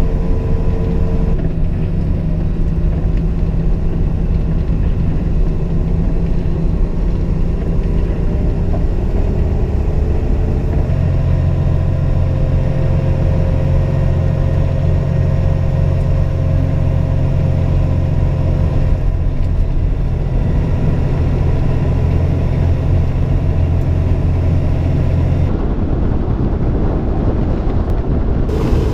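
Heavy snowplow truck's diesel engine running steadily, its note changing a few times.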